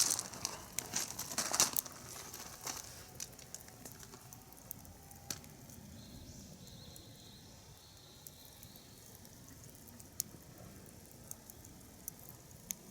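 Crinkling and rustling for the first couple of seconds, then scattered small sharp clicks and pops over a quiet background.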